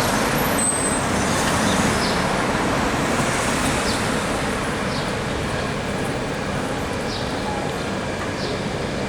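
Steady rumble of a B2-class tram running at a city-street tram stop, blended with general street noise.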